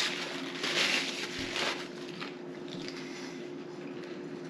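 Person chewing food, with a couple of short crunches in the first two seconds, over a faint steady hum.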